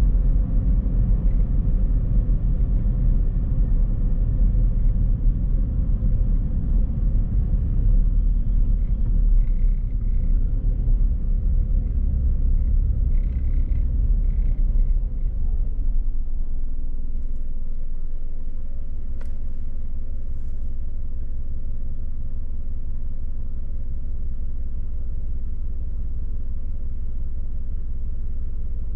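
Car on the move: a low rumble of engine and road noise that eases about halfway through to a steadier, quieter hum. A single sharp tick sounds about two-thirds of the way in.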